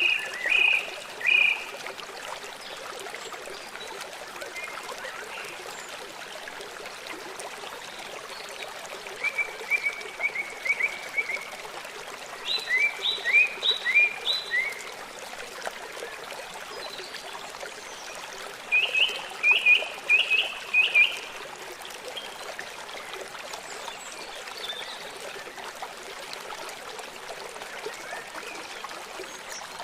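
River water flowing steadily, with a bird calling in four short runs of quick repeated chirps.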